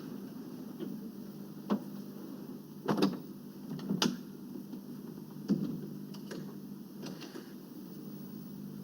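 Half a dozen scattered short knocks and clicks over a steady low hum; the loudest come about three and four seconds in.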